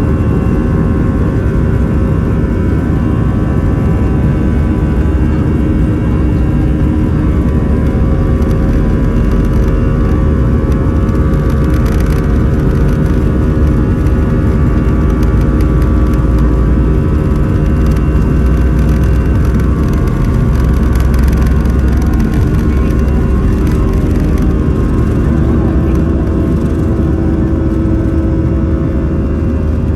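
Airbus A319 jet engines and airflow heard inside the passenger cabin: a loud, steady drone with a few steady tones running through it.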